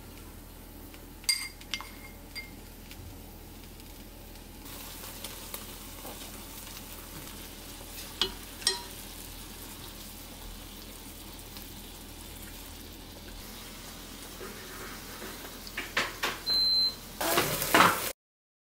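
Eggplant slices sizzling in a hot nonstick frying pan as soy sauce is added; the sizzle gets louder about five seconds in. A few light clinks of the spoon and chopsticks against the pan, and busier sizzling and clatter near the end.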